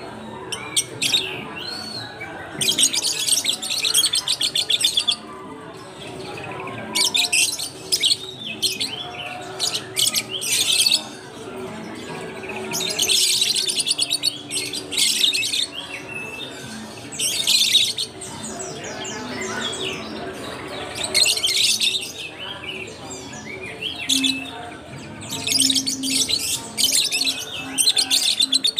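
Many caged birds chirping and chattering in loud, rapid bursts of high calls every few seconds, with quieter stretches between.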